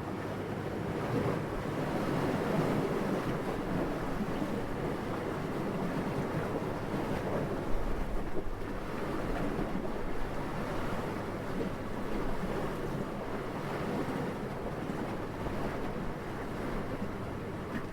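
Steady wind noise, swelling and easing gently, with a brief stronger gust about eight seconds in.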